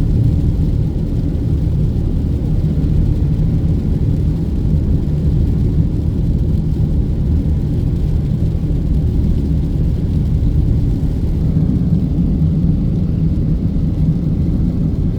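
Steady low rumble of a car cruising on the highway, heard from inside the cabin: engine and road noise.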